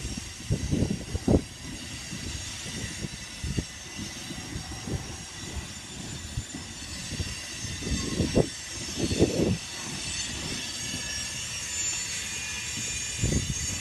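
Cars of a grain train rolling past, with a steady high wheel squeal and irregular clunks and rattles from the wheels and couplers.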